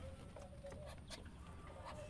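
Faint farmyard background: a steady low hum with a handful of scattered sharp ticks.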